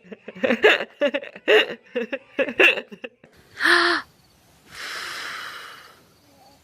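A voice chattering for a few seconds, then a short, loud, high vocal sound, then one long breathy blow lasting just over a second.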